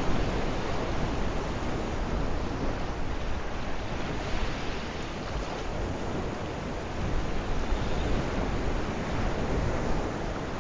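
Sea waves washing on the shore in a steady, rolling hiss, with wind buffeting the microphone as a low rumble.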